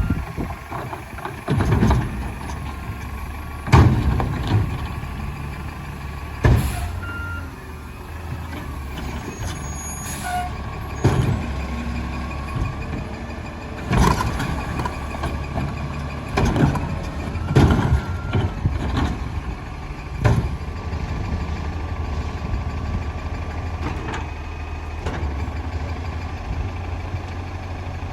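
Rumpke garbage truck with a Curotto Can arm working a recycling collection: its diesel engine runs steadily under a series of about eight loud bangs and clattering crashes, spread through the first twenty seconds, as carts of recyclables are handled and dumped.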